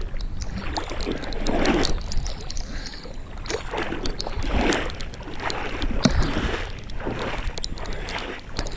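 Legs wading through shallow water, sloshing and splashing in an uneven stride of about one swish a second.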